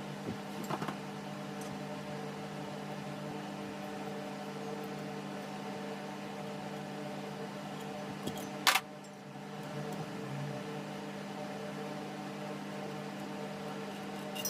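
Table fan running with a steady electric motor hum. A sharp clack of something hard being handled comes once, a little past halfway.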